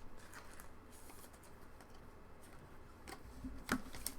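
Faint handling noises of trading cards: a few soft clicks and light rustles, a little louder near the end.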